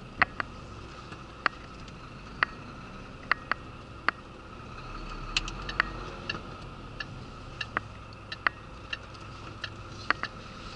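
Inside a rigid lorry's cab at low speed: a steady low engine hum with irregular sharp clicks and ticks from the cab rattling.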